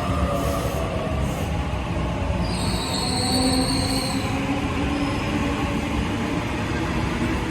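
Train running on the rails with a steady, heavy rumble. A high-pitched wheel squeal rises over it from about two and a half to four seconds in.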